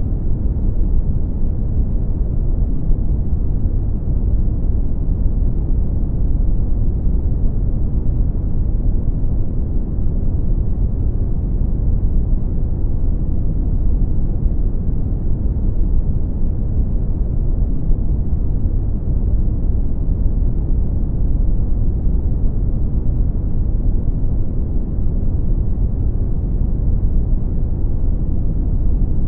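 Brown noise: a steady, deep rumbling hiss, strongest in the bass and falling away in the highs, with no changes.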